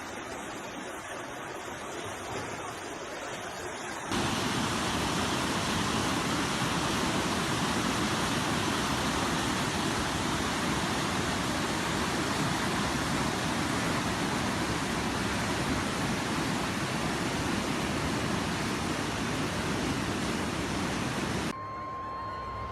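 Floodwater rushing in a steady roar of water noise, jumping louder at a cut about four seconds in. Near the end it cuts to a quieter shot with a brief steady beep.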